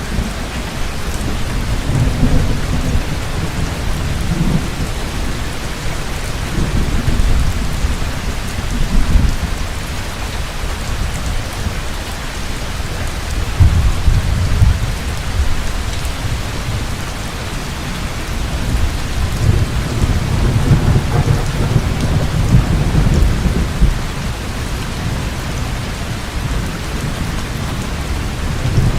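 Heavy rain pouring steadily, with rolls of low thunder rumbling several times, loudest at about two, seven, fourteen and twenty seconds in.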